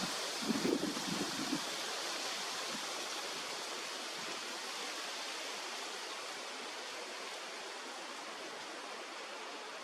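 Steady rush of flowing stream water, with wind buffeting the microphone in the first second or so.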